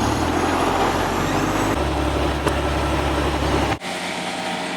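Semi-truck diesel engine running steadily with a deep rumble, its low note shifting partway through. Near the end it cuts off suddenly to a quieter steady hum.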